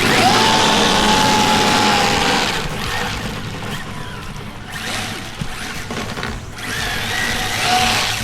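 Team Associated SR7 RC car's electric motor whining as it speeds up, slows and speeds up again, with tyre-sleeve and spray hiss from driving and drifting on wet pavement.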